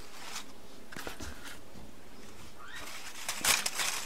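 Paper raffle slips rustling and scraping in a container as they are stirred, in a few short, soft bursts, with a denser run of rustling near the end.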